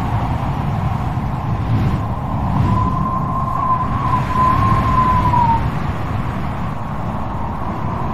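Strong wind blowing with a deep, steady rumble, and a thin howling whistle that wavers for about three seconds in the middle and dips away at its end.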